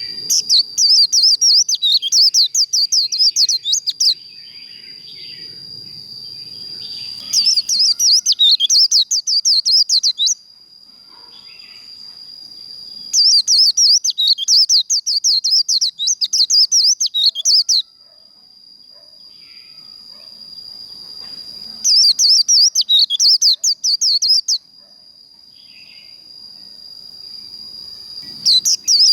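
White-eye singing its rapid, high twittering 'líu' song in loud bursts of three to four seconds, five times, about every six to eight seconds. A steady high thin tone runs underneath throughout.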